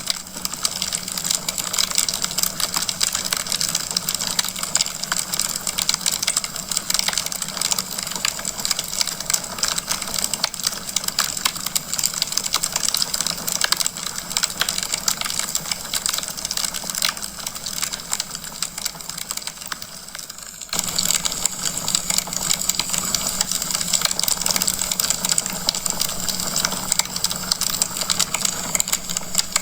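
Wood fire crackling in a fireplace: a dense run of small pops and snaps over a steady hiss. About 20 seconds in the sound dips briefly, then resumes with an abrupt change.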